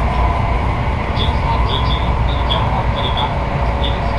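Interior running noise of an N700-series Shinkansen passenger car: a steady low rumble and hiss of the train on the move, with faint short high chirps scattered through it.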